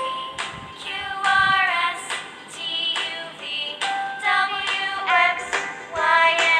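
Children's song: a high, bright sung melody over backing music.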